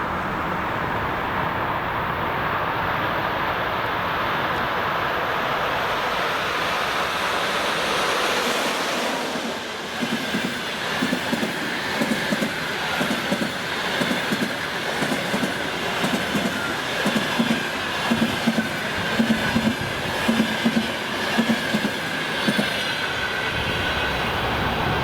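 EP2K DC electric passenger locomotive and its express train passing at speed: a steady rush as the locomotive goes by, then from about ten seconds in the coaches' wheels clatter over rail joints in regular paired knocks, with a thin high squeal from the wheels, until the clatter stops a couple of seconds before the end.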